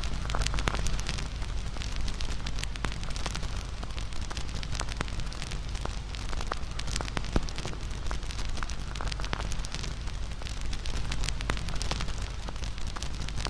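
Campfire crackling: a steady hiss of burning wood, dense with irregular sharp pops and snaps.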